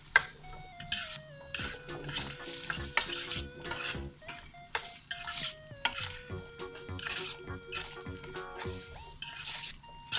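Diced carrots and potatoes sizzling in hot oil in a nonstick pan, stirred and scraped with a spatula in quick, repeated strokes that knock against the pan.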